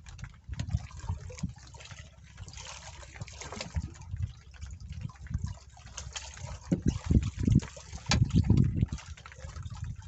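Water splashing and gushing, with irregular gusts of wind buffeting the microphone, stronger in the second half.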